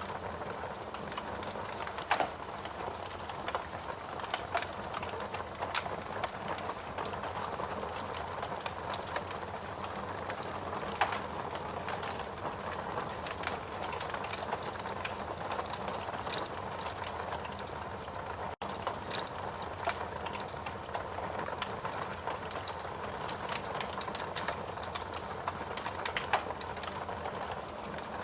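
Log fire burning in a fireplace: a steady hiss with scattered sharp crackles and pops, a few of them louder. The sound cuts out for an instant about two-thirds of the way through.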